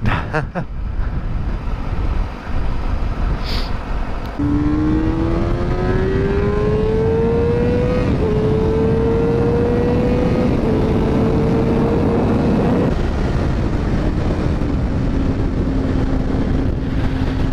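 Kawasaki ZX-6R sport bike's inline-four engine accelerating hard: about four seconds in it opens up, the pitch climbing and dropping back at two upshifts, then settling to a steady cruise. Wind rushes over the microphone throughout.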